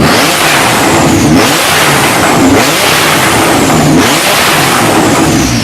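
Tuned car engine revving hard through a loud exhaust, its pitch rising and falling several times.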